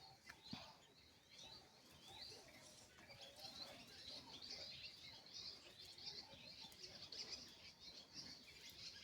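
Faint, high chirping of small birds, many short calls overlapping throughout.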